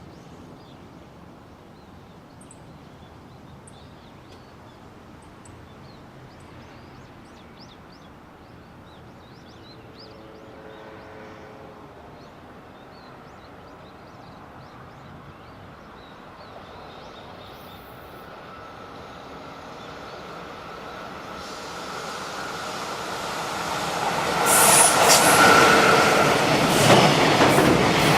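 JR Freight EF66 electric locomotive hauling a container freight train, approaching from a distance and growing steadily louder over the last ten seconds. Near the end it passes close by, with loud wheel clatter over the rail joints and a steady whine.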